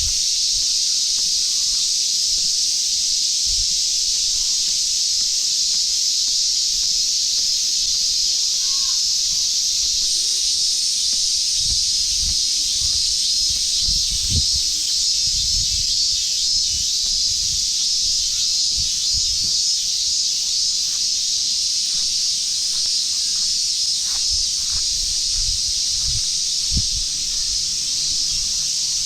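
Steady, unbroken summer chorus of cicadas, a dense high hiss, with scattered low thumps from about halfway in.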